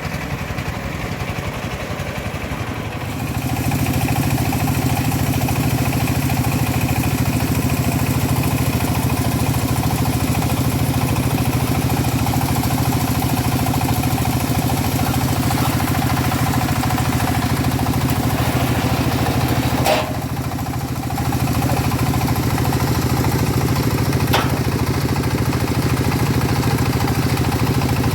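Engine of a homemade bandsaw sawmill running steadily while sawing teak, getting louder about three seconds in. There is a brief dip with a sharp click about twenty seconds in and another click a few seconds later.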